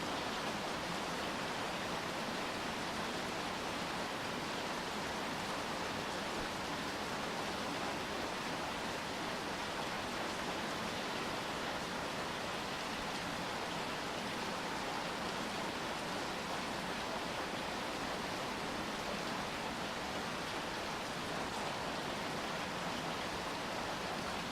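Steady rain falling as an even hiss, with no single drops, gusts or other sounds standing out.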